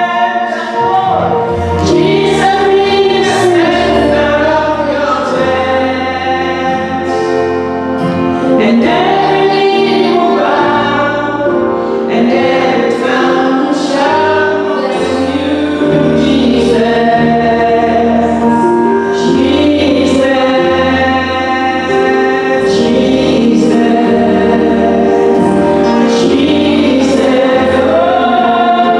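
A choir singing a gospel song with instrumental backing, voices holding long notes over a steady bass line.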